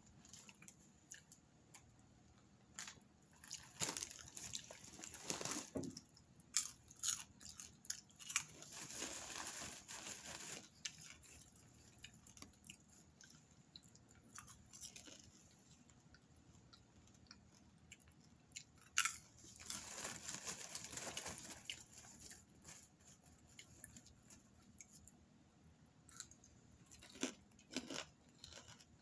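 Popcorn being chewed, crunching in spells of sharp clicks with quieter pauses between mouthfuls.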